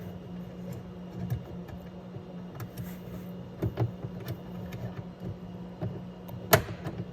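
Small clicks and taps of parts being handled inside a car door as a door-latch actuator's cable is clipped in, with one sharp click about six and a half seconds in. A steady low hum runs underneath.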